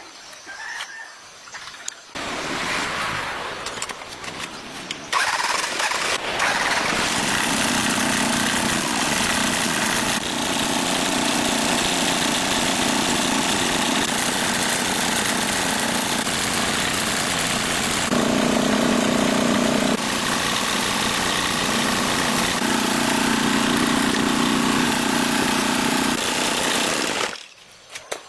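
A freshly repaired engine starting about two seconds in, growing louder and then running steadily, its note shifting a few times, before cutting off shortly before the end.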